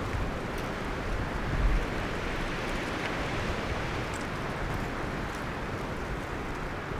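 Wind rustling the leaves and branches of forest trees as a steady hiss, with a brief low rumbling gust about a second and a half in.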